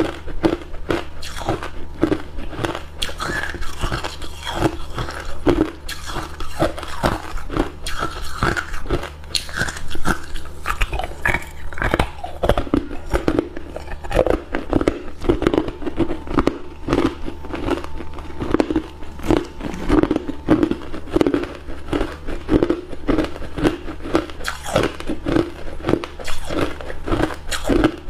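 Hard ice cubes being bitten and chewed close to the microphone, a rapid run of loud crunches and cracks several times a second.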